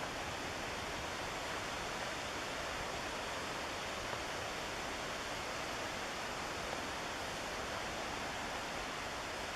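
Steady rushing of the McKenzie River's white water.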